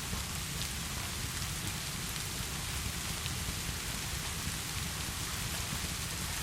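Heavy, steady rainfall with a dense even hiss and a low rumble underneath, and faint scattered ticks of individual drops.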